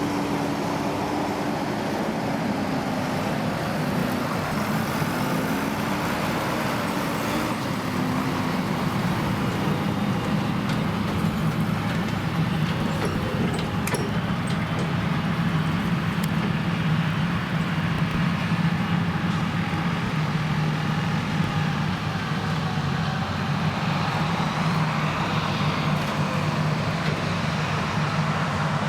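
Krone Big X 1100 self-propelled forage harvester running under full load, its Liebherr V12 diesel engine droning steadily over the rushing noise of the crop being chopped. The engine note wavers for the first several seconds, then settles lower and holds steady.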